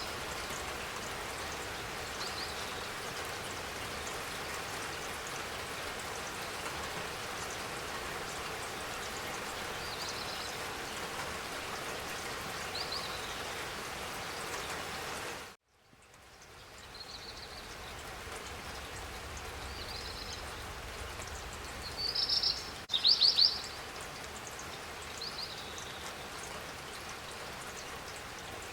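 Steady rain with a bird chirping briefly every few seconds. About halfway through, the rain cuts out abruptly and fades back in, and a couple of louder bird calls come near the end.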